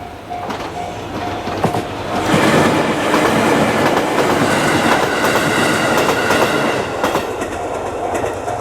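A train passing over a level crossing, its wheels clicking over the rail joints, loud from about two seconds in until about seven seconds. Under it the crossing's warning bell dings about twice a second, heard plainly at the start and again near the end.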